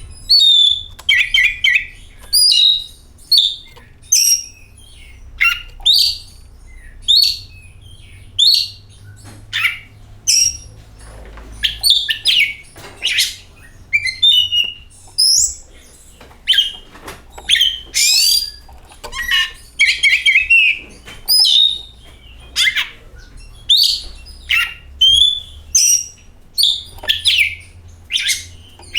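Oriental magpie-robin (kacer) singing loudly: a varied run of short whistled phrases, rising sweeps and harsher notes with brief gaps between them, and a quick trill about twenty seconds in.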